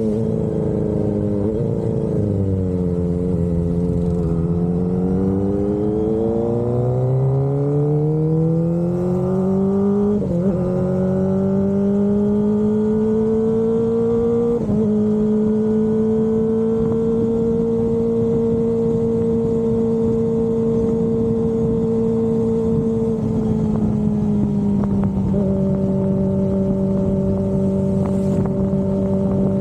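Kawasaki Ninja ZX-25RR's 250 cc inline-four running through an Austin Racing aftermarket exhaust. The note dips a couple of seconds in, climbs steadily with two brief hitches, holds a steady pitch, and eases down slightly near the end.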